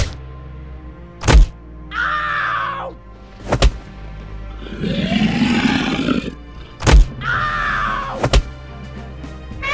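Cartoon fight sound effects over background music: five sharp hits, two short cries falling in pitch, and a longer, deeper animal roar about halfway through.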